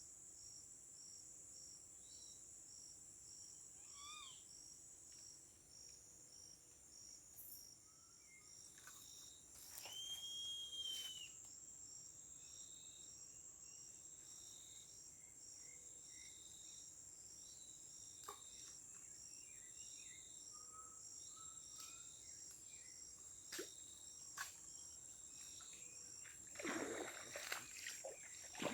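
Faint outdoor ambience of insects: a steady high-pitched buzz and a cricket-like chirp repeating about twice a second. Birds call now and then, with one held whistle a third of the way in, and a short louder noise comes near the end.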